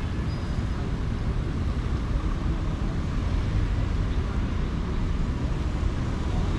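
Steady city traffic noise: a continuous low rumble and hiss of vehicles, with no single event standing out.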